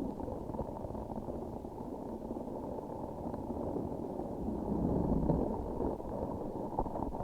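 Close-miked squishing and crackling of a transparent sticky object being pressed and worked by hand, a dense, muffled, bubbly texture that swells to its loudest around the middle.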